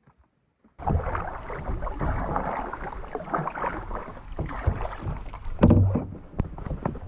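Canoe being paddled, with wind buffeting the microphone, and a few sharp knocks about five and a half and six and a half seconds in. The sound starts abruptly just under a second in.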